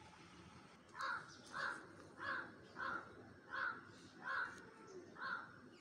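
A bird calling in an even series of about eight short, harsh calls, roughly two-thirds of a second apart, starting about a second in.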